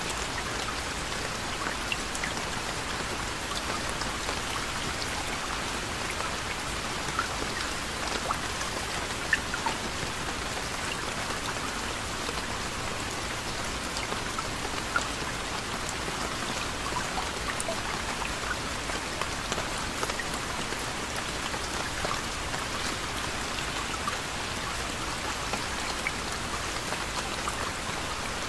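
Steady soft rain falling on a surface, an even hiss with scattered small drips and drop ticks.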